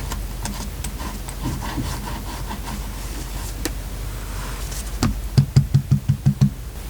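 Hands working paper on a desk: light rustling and small clicks, then a quick run of about eight soft thumps, some five a second, near the end, like paper being patted or pressed down.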